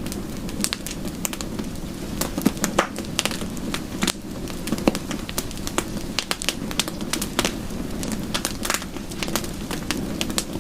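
Fire in a fireplace crackling: many irregular sharp pops and snaps over a steady low rumble of the flames.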